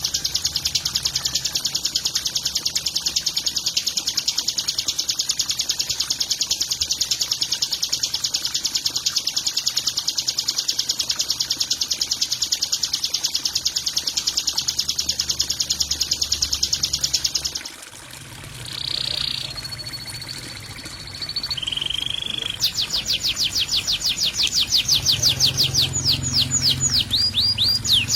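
Songbird song from a masteran training recording: a long, very fast, buzzy high trill that cuts off suddenly, followed by a few short whistled notes and then a quick run of sweeping high chips that speeds up near the end.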